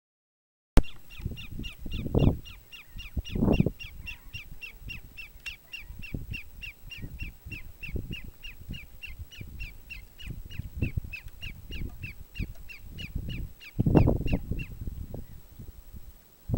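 A bird calling a long, even series of short, high, slightly falling notes, about four a second, which stops a little before the end. Wind rumbles on the microphone in gusts underneath, loudest near the start and near the end.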